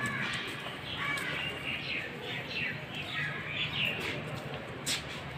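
Birds chirping repeatedly, many short calls over a low steady outdoor background rumble, with one sharp click about five seconds in.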